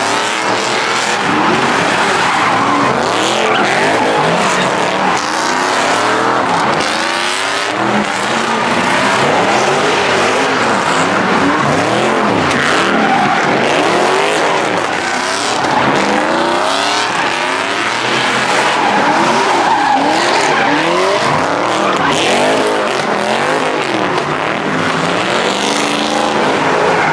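Cars spinning donuts: engines revving up and down over and over, with tyres squealing and skidding on the pavement.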